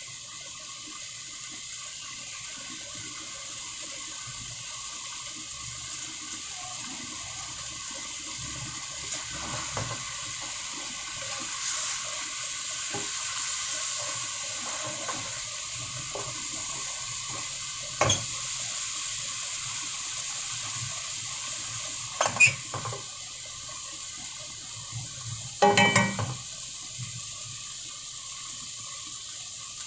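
Egg omelette frying in a pan, a steady sizzle, with a few sharp knocks of a utensil against the pan in the second half.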